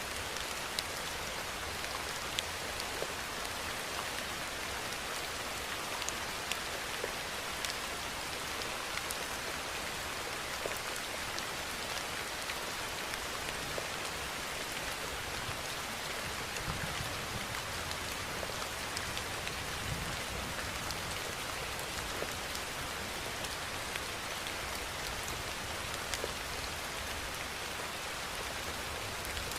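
Steady rainfall: a constant hiss of rain, with single drops ticking sharply here and there.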